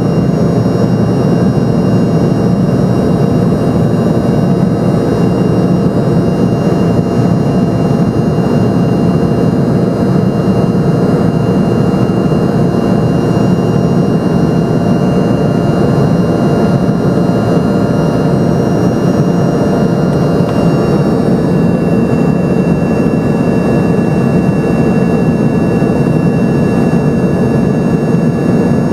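Steady cabin drone of an Embraer ERJ-145's rear-mounted Rolls-Royce AE 3007 turbofan engines, heard from inside the passenger cabin. A steady engine whine sits over the rumble, and its tones shift slightly about twenty seconds in.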